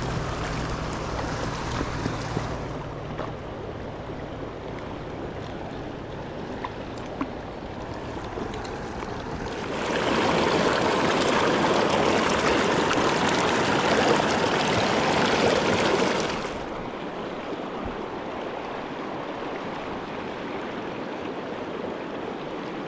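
Fast-flowing river water rushing steadily, growing louder for about six seconds in the middle.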